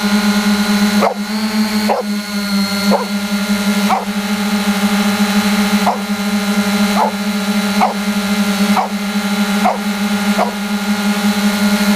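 3DR Iris+ quadcopter's four electric motors and propellers humming steadily, with short flicks up and down in pitch about once a second as the motor speeds adjust in flight.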